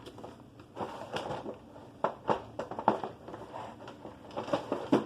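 Small plastic Mega Construx figures and parts being handled: a series of short, light clicks and taps.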